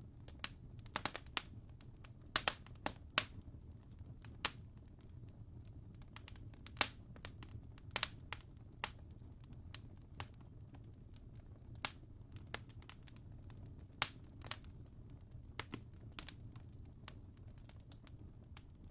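Fire crackling: irregular sharp pops and snaps, one or two a second and varying in strength, over a steady low rumble.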